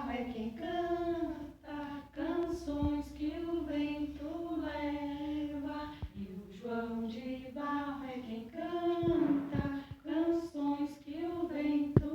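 A woman and children singing a Portuguese children's song unaccompanied, in held, gently moving phrases with short breaths between them.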